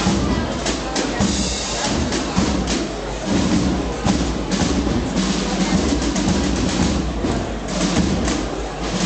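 Processional marching band playing a Holy Week march, with drums prominent and struck in a steady rhythm.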